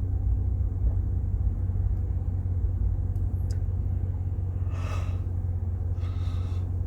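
Steady low engine rumble with a constant hum, with two short soft breath-like hisses about five and six seconds in.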